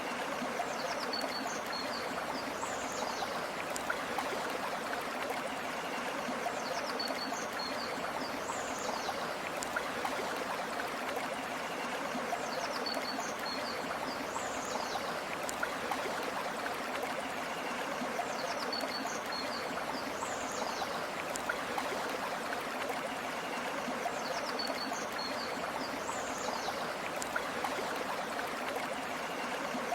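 A river or stream flowing steadily, a continuous rushing of water. A short, high call recurs about every six seconds over the water.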